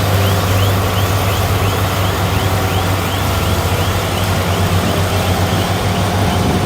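Heavy earthmoving machine's diesel engine running steadily, with a regular high squeak repeating about two to three times a second.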